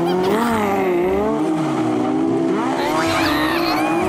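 Banger race car engines running and revving, with pitched tones that waver up and down over a steady low drone.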